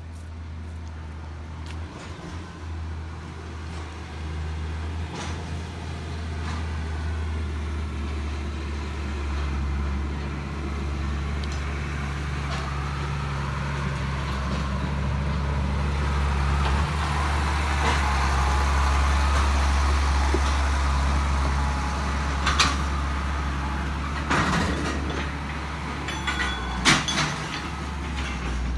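Heavy diesel engine running steadily, swelling louder toward the middle with a whine over it, and three sharp metallic clanks near the end.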